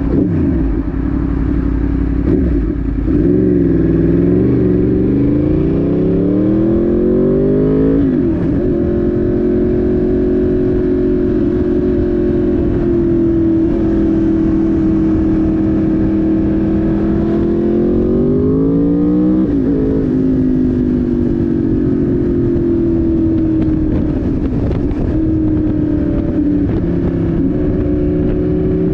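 Yamaha YZF-R1's inline-four engine under way: it climbs through the revs and shifts up about eight seconds in, holds a steady cruise, climbs again and shifts up once more around twenty seconds in, then settles to steady running that eases off slowly.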